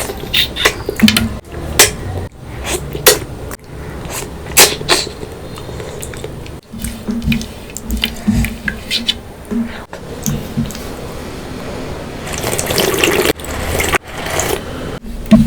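Close-miked eating sounds of fish curry and rice: wet chewing with many sharp lip smacks and clicks, and a short denser rush of wet noise near the end.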